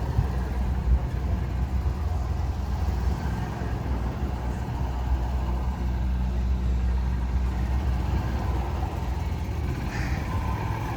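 A motor vehicle engine idling steadily, deep and unchanging.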